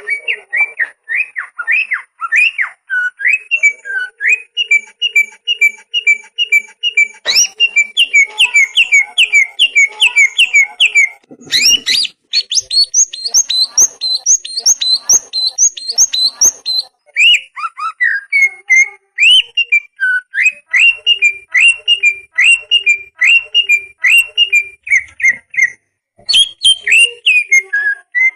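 Songbird song: fast runs of short whistled notes, each run repeating one note many times before switching to a new pattern every few seconds, over a thin steady high tone.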